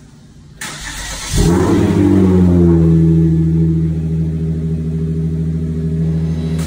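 Car engine cranked by the starter for under a second, then catching with a brief flare of revs that falls back into a steady idle.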